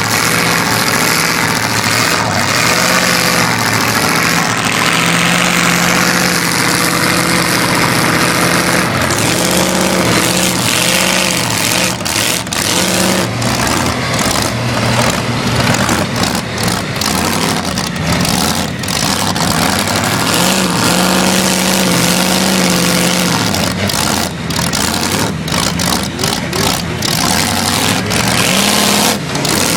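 Vehicle engine revving hard again and again, pitch rising and falling, as it tries to snatch a vehicle stuck in the mud out, without success. Sharp clicks and knocks come through often in the second half.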